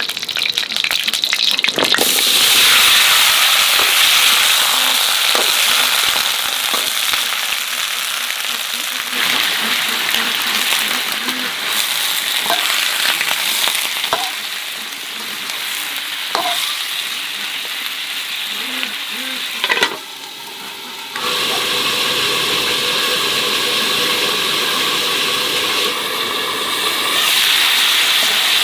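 Food sizzling and crackling as it fries in hot oil, a steady dense hiss that dips briefly about twenty seconds in and then resumes.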